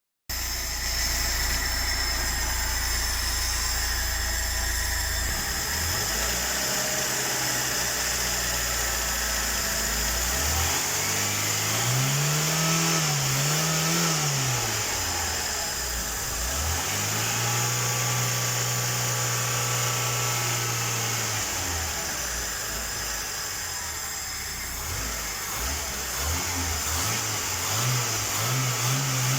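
VAZ 2106 (Lada) carburetted inline-four engine idling steadily, then revved up and down several times and held at higher revs for a few seconds, with more short blips near the end. The engine shakes at idle and under load.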